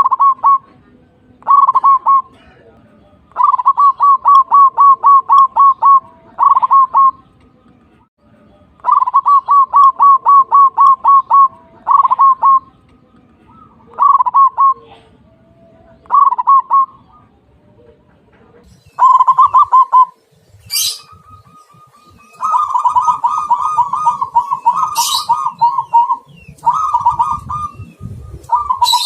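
Lovebird mimicking a zebra dove's (perkutut's) cooing song: repeated phrases of quick stuttering notes, with pauses between phrases. A longer run comes near the end, along with a couple of sharp high squeaks.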